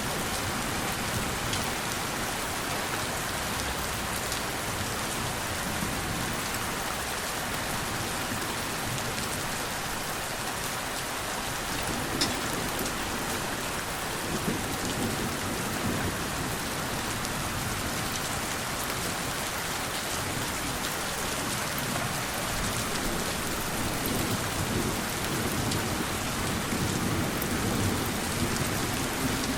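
Steady rain falling, with scattered drops ticking and low swells of gentle thunder rumbling now and then.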